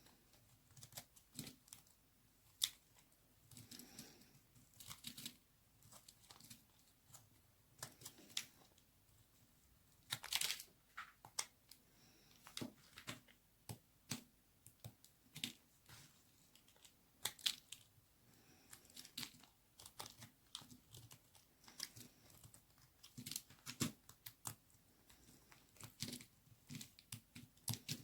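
A knife cutting into a bar of white baby soap: short, irregular crackling scrapes and snaps as the blade goes through the soap, some louder than others.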